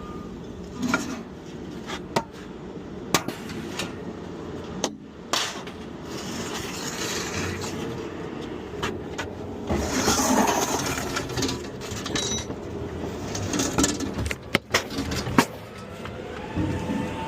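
Scrap metal being handled and loaded: scattered sharp metal clanks and knocks, a few near the start and a quick cluster near the end, over a steady low rumble.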